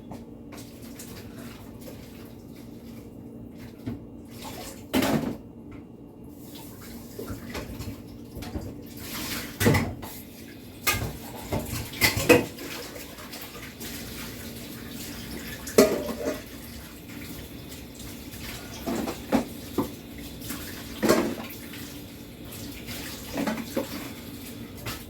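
Washing dishes at a sink: water running from a tap, with dishes and utensils clinking and knocking against each other every second or two over a steady low hum.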